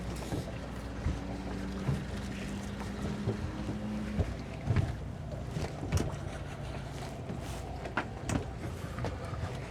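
Twin Suzuki 200 hp outboard motors idling steadily, with a few short sharp knocks over the engine hum.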